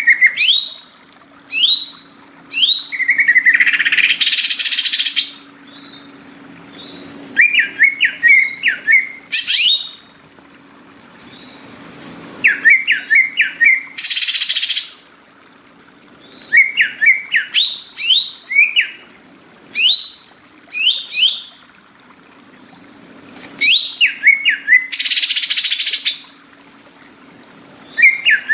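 Green leafbird (cucak ijo) singing: repeated phrases of quick, sweeping whistled chirps. A loud harsh hissing burst about a second and a half long comes three times, roughly every ten seconds, over a faint steady low hum.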